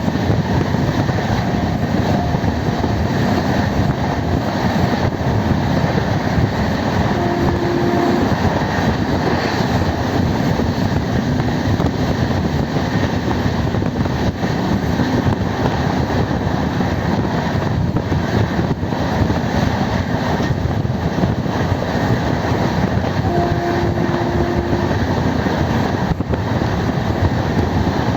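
Passenger express train running at speed: a loud, steady rumble of wheels on the track, with a brief steady tone twice, about 7 seconds in and again near 23 seconds.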